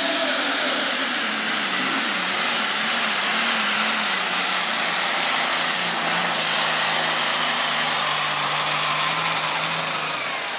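Super stock pulling tractor's turbocharged engine running hard under load down the track, with a high steady turbo whine over the engine note. The engine note wavers at first, then holds lower and eases off near the end.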